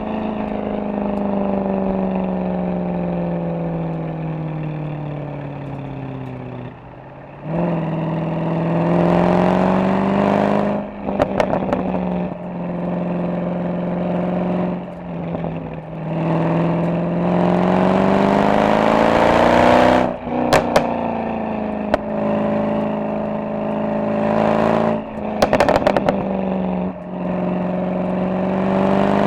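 Mercedes-AMG SL63 V8 under way, its exhaust note falling as it coasts and rising again as it accelerates through the gears, several times over. Sharp crackles come from the exhaust in short clusters, about a third of the way in, two-thirds in and near the end.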